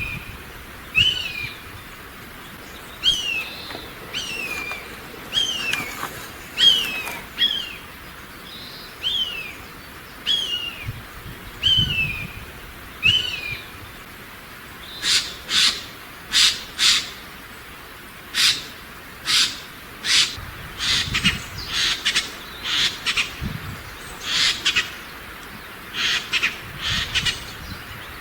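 Wild bird calls. A bird repeats short, falling, high calls about once a second, and from about halfway through these give way to a run of harsh, rasping calls.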